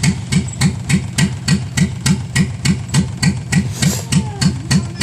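Dodge Ram's carbureted engine being cranked over by the starter in the cold without catching: a steady, even rhythm of about three and a half pulses a second, each with a sharp click.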